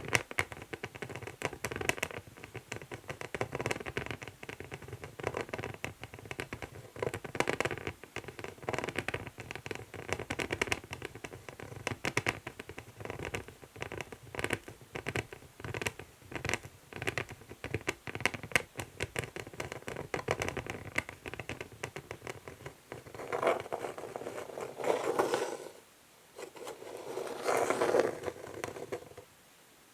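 Fingernails scratching an old wooden chess board, in quick, dense strokes for most of the time, then a few longer, slower scratches near the end.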